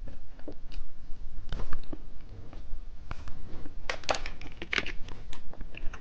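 Plastic candy packaging crinkling and crackling as it is handled, in irregular short bursts, loudest about four to five seconds in.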